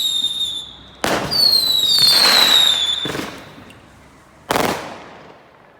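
Fireworks going off: whistling fireworks with several whistles falling in pitch, then sharp bangs about a second in, around three seconds in and once more near the end, each trailing off.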